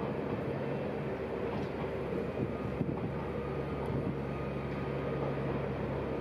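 Dutch NS electric multiple-unit passenger train running past on the tracks: a steady rumble of wheels on rail with a constant low hum.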